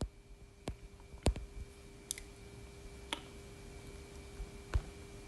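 A few faint, separate clicks and taps at irregular gaps, roughly one every second, over a steady faint electrical hum.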